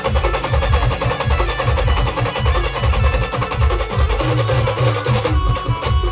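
Pavri band music: fast, heavy drumming under a held melody line, which shifts to a new, higher note about five seconds in.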